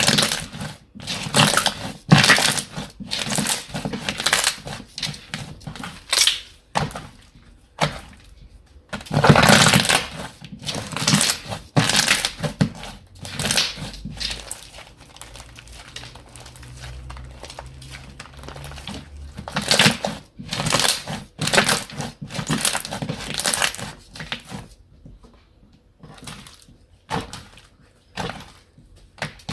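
Slime being squished, pressed and stretched by hand, giving irregular bursts of sticky crackling and popping with a few quieter pauses.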